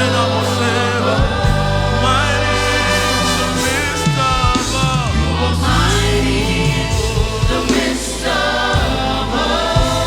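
Live gospel praise and worship music: a band with singers and choir sustaining wordless or unclear vocal lines over held bass notes.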